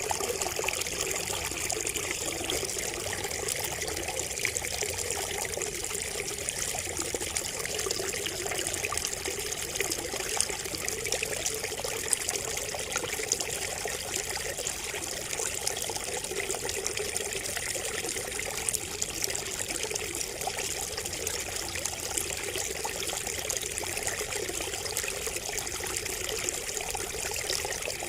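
Water trickling and splashing steadily from bamboo, a continuous babbling with many small irregular splashes.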